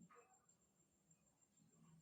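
Near silence: room tone, with a faint low hum.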